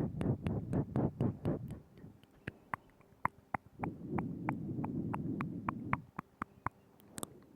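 ASMR mouth sounds made right at the microphone: a steady run of wet tongue and lip clicks, about four or five a second, with soft breathy sound under them at the start and again midway.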